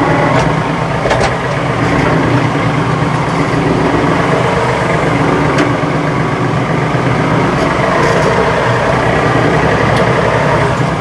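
RK37 compact tractor's diesel engine running steadily while lifting a heavy log on rear three-point-hitch pallet forks, with a few sharp knocks scattered through.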